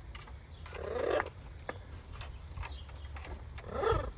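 Pet parrot squawking twice: a harsh call about a second in and a shorter one near the end.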